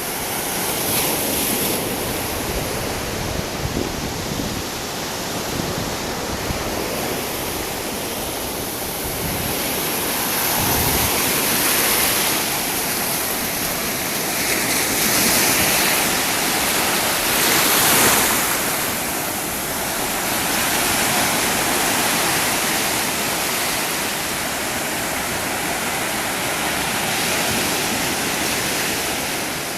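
Sea surf: a steady rush of waves breaking that swells and eases every few seconds, loudest about eighteen seconds in.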